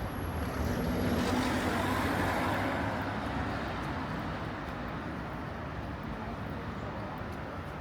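A motor vehicle passing on a city street, loudest in the first three seconds and then fading into steady traffic noise.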